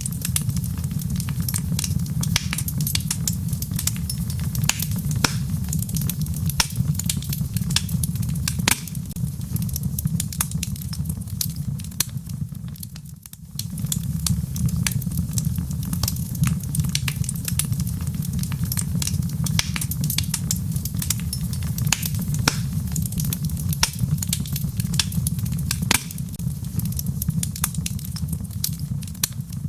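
Log fire burning in a fireplace: a steady low rumble of flames under frequent sharp crackles and pops from the burning wood. The sound dips briefly about 13 seconds in, then carries on.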